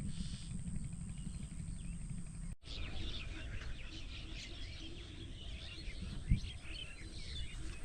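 Many small birds chirping and twittering, starting about two and a half seconds in after a brief dropout, over a low outdoor rumble; a single low thump about six seconds in.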